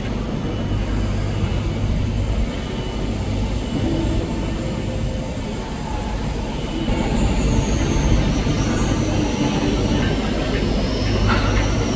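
Train rumbling along the tracks, with a thin high squeal that slowly falls in pitch coming in about halfway, and a sharp click near the end.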